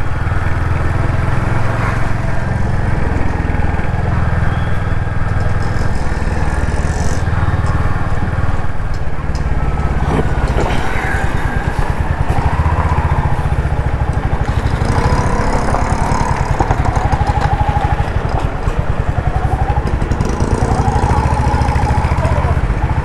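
Royal Enfield Hunter 350's 350cc single-cylinder engine running while the motorcycle is ridden, a steady low exhaust note.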